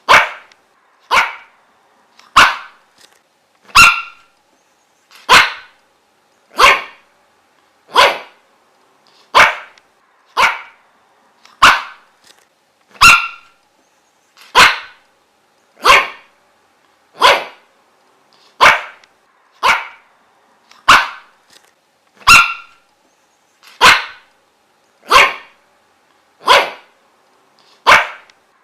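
A dog barking single sharp barks at a steady, even pace, about one every second and a quarter.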